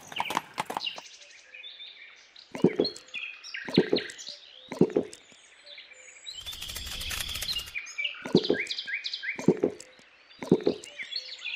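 Birds chirping in quick short calls, over a series of sharp knocks about a second apart, three in a row and then three more, with a brief noisy rustle about two thirds of the way through.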